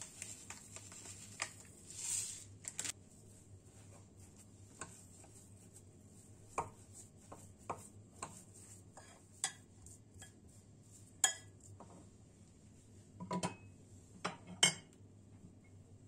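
Kitchen dishes and cutlery being handled: scattered sharp clinks and knocks, a few louder ones near the end, with a brief hiss about two seconds in.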